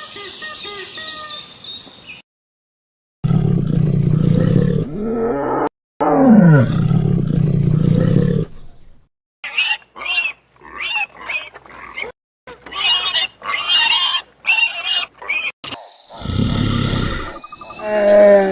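Farm animal calls in short clips joined by abrupt cuts. High chirping calls come first, then a long, loud, low call with a falling pitch, then a run of short high-pitched cries, and a low rough call near the end.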